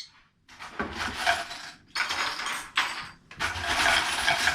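Coins clinking and rattling in three bursts, like a handful of treasure coins being shaken and poured.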